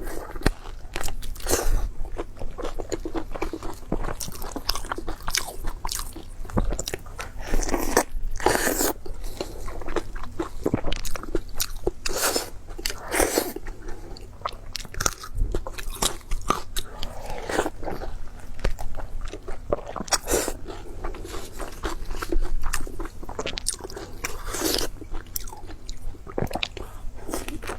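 Close-miked eating: a person biting into and chewing crunchy food, with many sharp, irregular crunches.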